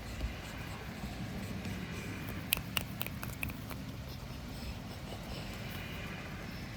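Fingernails scratching fabric close to the microphone, a steady rustling scratch, with a few sharp clicks about halfway through.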